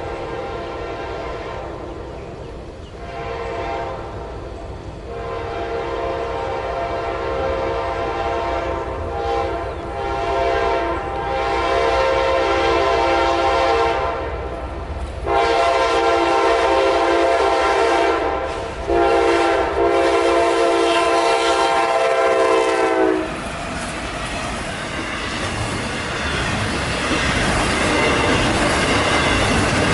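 CSX freight locomotive's air horn sounding several long blasts, several tones together, as the double-stack container train approaches at full track speed. The horn stops about 23 seconds in, and the rushing clatter of the train's wheels on the rails grows louder as it passes.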